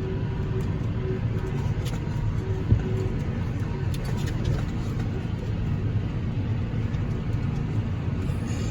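Tractor engine running steadily, a continuous low rumble, with one short sharp knock a little under three seconds in.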